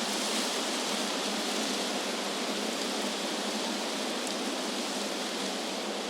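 Wind blowing steadily through trees, an even rushing hiss of moving leaves with no gusts or breaks.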